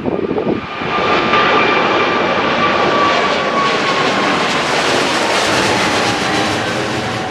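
Boeing 777-300ER's twin GE90-115B turbofans at takeoff power: a loud jet roar that swells about a second in, with a whine that slowly falls in pitch as the airliner passes.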